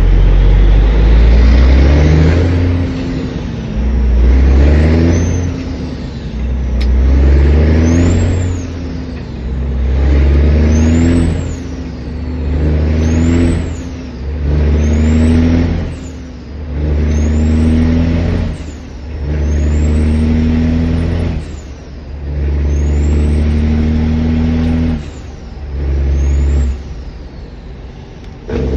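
Caterpillar 3406 diesel in a Kenworth W900 pulling hard through the gears: about ten loud pulls of a couple of seconds each, the engine sound dropping away briefly at each shift. A high whistle rises and falls with every pull.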